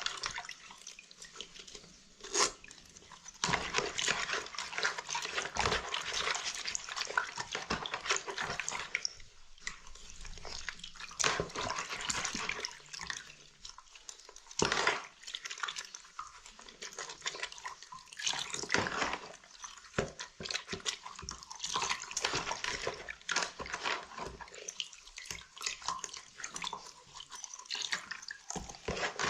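Wet cleaning sounds: irregular brushing and scrubbing swishes with water splashing and dripping, broken by sharp clicks and taps.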